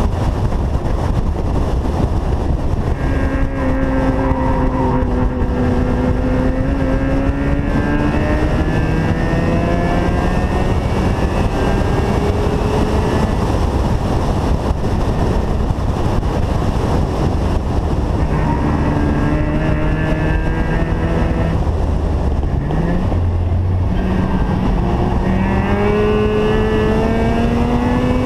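Mazda RX-7's ported rotary engine accelerating hard, its pitch climbing several times and dropping back between climbs, over steady wind and road noise.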